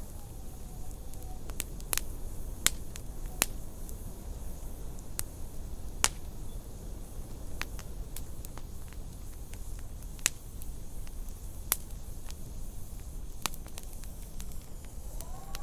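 Wood fire crackling, with sharp irregular pops every second or two over a low steady rumble of fire and wind. A faint whistling howl of wind fades out about a second in and rises again near the end.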